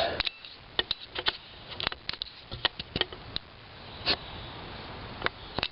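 Handling noise: a scatter of light, irregular clicks and taps, with one slightly longer soft rustle about four seconds in.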